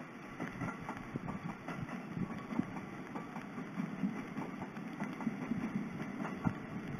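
Electric commuter train running along the track: a steady low rumble with scattered irregular clicks.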